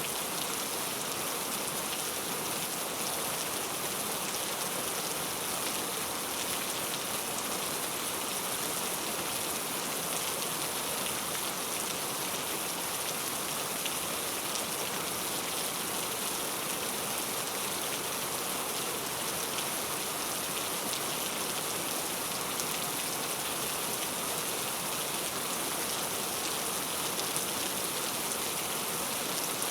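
Heavy, steady rain falling on surfaces: an even hiss of dense raindrops that does not change.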